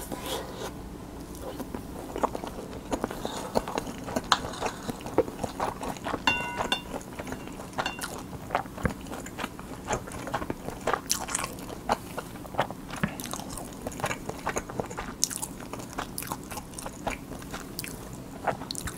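Close-miked chewing of a mouthful of Spam kimchi fried rice topped with a fried quail egg: a steady stream of short, irregular mouth clicks and smacks.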